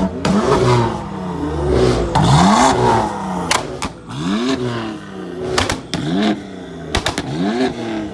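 Sports car engine revved in quick blips, about six or seven times, each one rising and falling in pitch, with a few sharp exhaust cracks between the revs.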